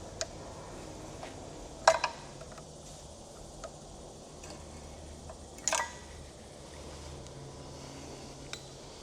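A few sharp metallic clicks and taps, two close together about two seconds in and another near the middle, from a compression tester's fitting being worked into a spark plug hole, over a faint steady hum.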